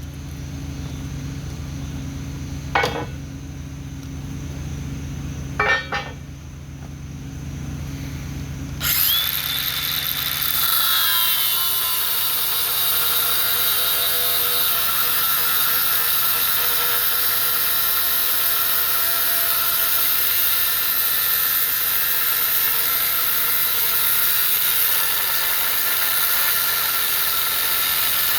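A power tool grinding or cutting metal: it starts about nine seconds in, its pitch dropping at first as it bites into the work, then runs on steadily and loudly. Before it there is a low steady hum and two short sharp metal knocks.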